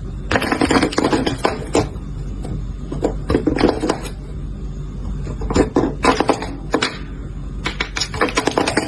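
Irregular clattering and knocking, many sharp hits in quick runs, over a steady low hum.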